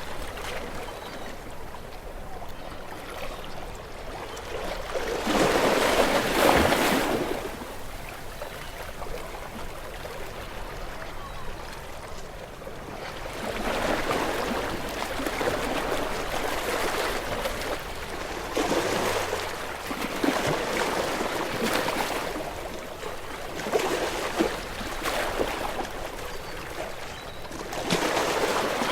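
Small waves washing onto a beach shore, each one swelling up and fading back every few seconds, with a louder wave about six seconds in.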